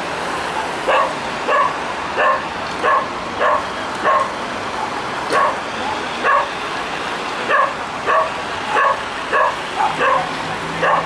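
Dog barking over and over at a steady pace, about one and a half barks a second.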